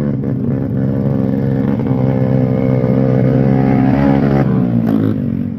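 Off-road trail motorcycle engine running under throttle, the revs climbing a little about three to four seconds in, then easing off near the end.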